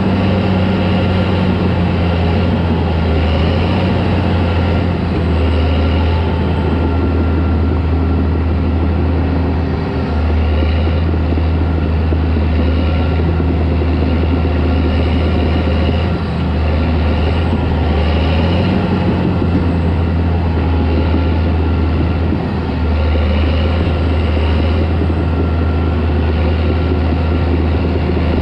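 Caterpillar D4 crawler tractor's diesel engine running steadily and loudly, with a few brief dips in level.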